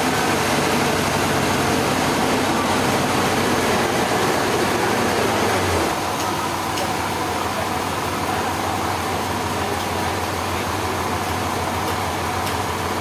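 An engine running steadily, its low note shifting and the level dropping slightly about six seconds in.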